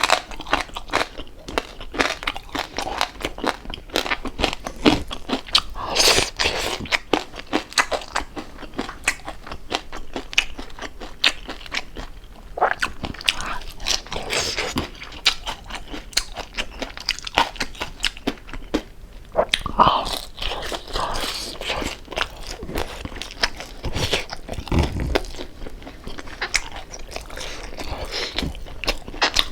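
Close-up crunching and chewing of crispy deep-fried pork jowl: a dense run of sharp crunches, with louder bites every few seconds.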